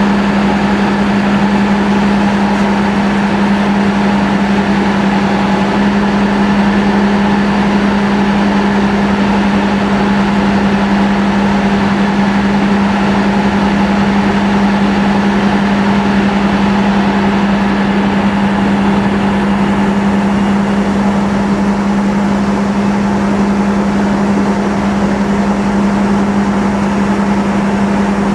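Fire truck engine running steadily: a constant low hum over a haze of noise, unchanging throughout.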